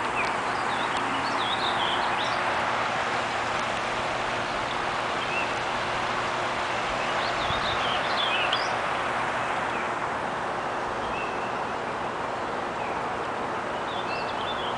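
Songbirds chirping in three short spells, about a second in, midway and near the end, over a steady rushing noise.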